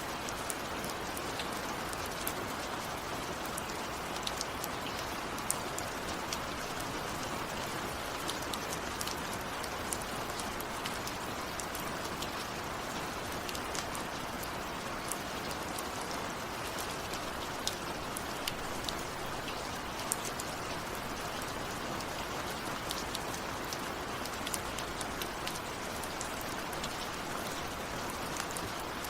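Steady rain falling, a constant hiss with many close, sharp drops pattering on a surface.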